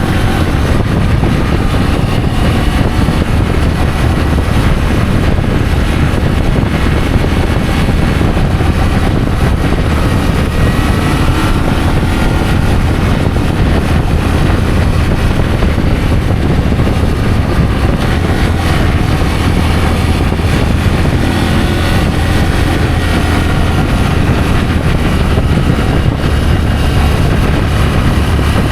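Adventure motorcycle on the move, its engine note drifting up and down with the throttle under a heavy, steady rumble of wind on the microphone.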